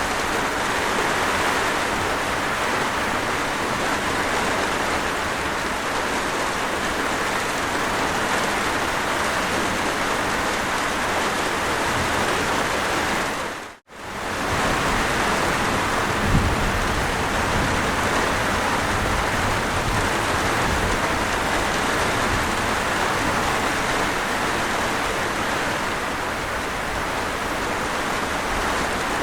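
Steady rain, an even hiss of falling water, from a recorded rain sound effect. About halfway through it fades out to near silence for a split second and comes straight back, and a couple of seconds later there is a single low thump.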